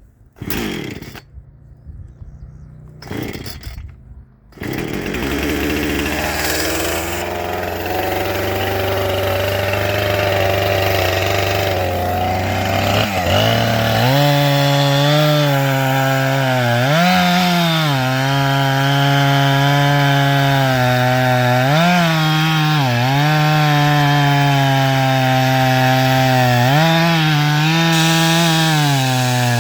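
Two-stroke chainsaw started: after two short bursts it catches about four seconds in and idles low. Later it goes to full throttle with a high, steady pitch that sags and recovers several times as it cuts into wood.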